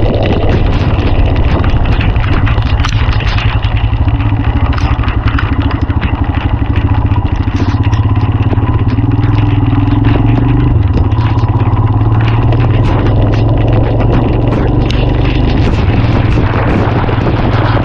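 Royal Enfield Himalayan's single-cylinder engine running steadily as the motorcycle is ridden along, with a slight change in engine note about eleven seconds in.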